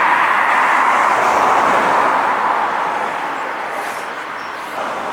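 A road vehicle driving past, its tyre and engine noise loudest at first and then slowly fading away.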